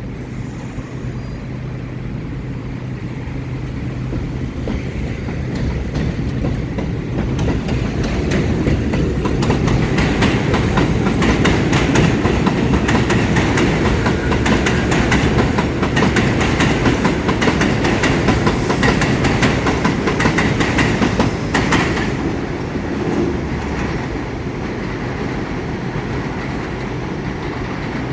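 A New York City subway train on the IRT Broadway–Seventh Avenue (1) line rumbling past, with rapid clickety-clack of its wheels over the rail joints. It grows louder over the first several seconds, is loudest through the middle, and fades back to a steady rumble after about 22 seconds.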